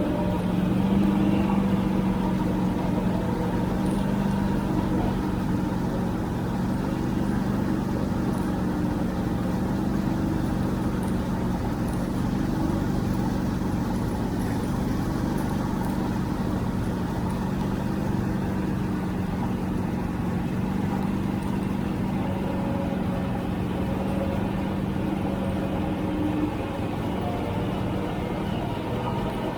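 Tractor engine running at a steady speed under way, a constant even-pitched engine note.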